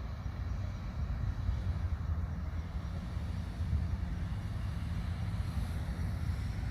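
Steady low rumbling noise, deep and even, with only a faint hiss above it and no distinct events.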